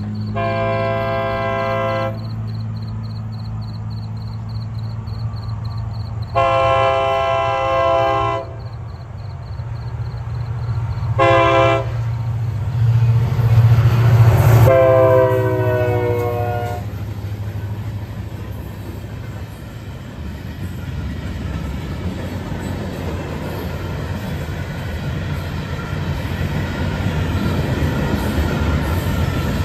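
Diesel locomotive of a Florida East Coast freight train sounding its horn for a grade crossing in the long, long, short, long pattern, the last blast dropping in pitch as the locomotive passes, while the crossing bell rings. The engine's rumble swells as it goes by, then the freight cars roll past with a steady, growing noise of wheels on rail.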